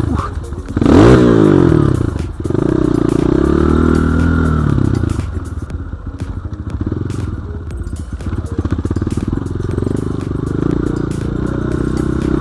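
BSE J1 enduro dirt bike engine under varying throttle. It revs hard and rising about a second in, drops off briefly, revs again, then runs on with choppy, uneven throttle while riding off-road.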